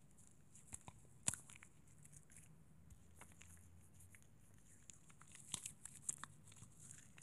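Quiet, close-miked ASMR trigger sounds: scattered small clicks and taps, with one sharper click about a second in and a cluster of clicks near the end.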